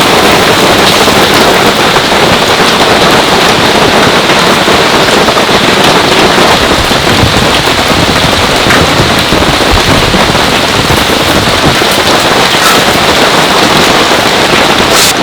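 Heavy rain falling steadily onto a tent fly: a dense, even hiss with scattered drop taps.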